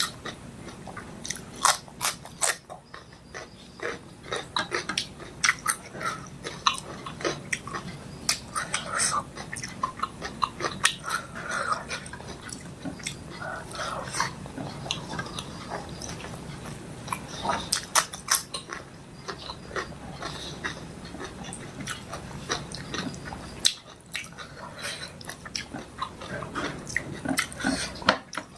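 Close-miked eating of fish curry with rice: irregular wet chewing and smacking, with frequent sharp clicks and an occasional crunch.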